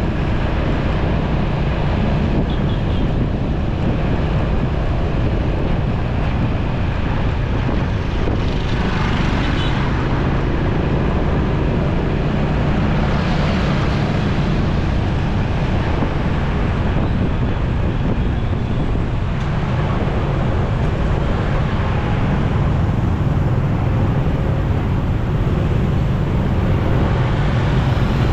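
Motorcycle running steadily while being ridden through city traffic, with wind rushing over the microphone and surrounding traffic mixed in.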